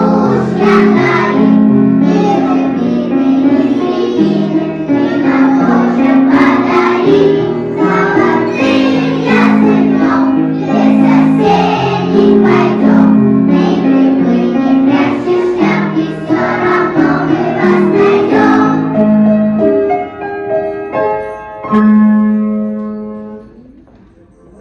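A group of young children singing a song together to instrumental accompaniment. About nineteen seconds in the voices stop and the accompaniment plays a few held closing notes, ending on a long low note that fades away.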